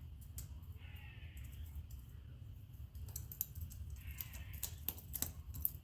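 Light clicks and taps of small metal parts and tools being handled while a transaxle is reassembled, with two short scraping sounds, about a second in and about four seconds in.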